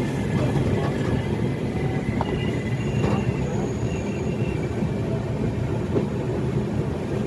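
Passenger train coaches rumbling steadily over the rails as the train runs slowly into a station. Faint high wheel or brake squeals come and go over the rumble.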